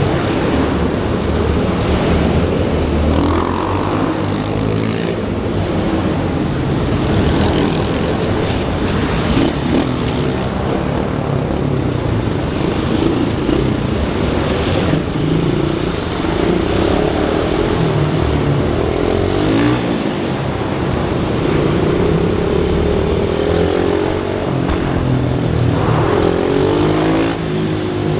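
Pit bike engine running hard around a track, its pitch rising and falling continuously as it accelerates and slows through the corners.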